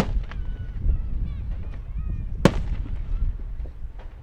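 Fireworks shells bursting: a sharp bang at the start and a louder one about two and a half seconds in. Between them are a low rumble and short rising and falling voice-like calls.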